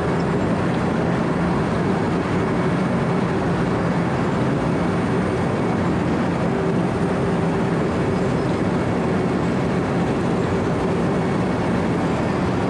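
Wirtgen W 120 CFi cold milling machine grinding through a section of concrete, crawling very slowly. The diesel engine runs steadily under load beneath the cutting drum's dense grinding.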